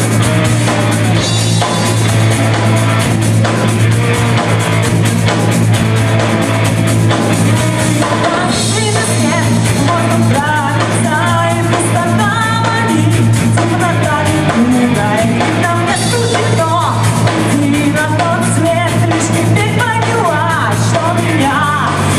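A rock/metal band playing live: drum kit, guitars and a steady heavy bass line. A wavering, bending melody line comes in about 8 seconds in and runs over the band.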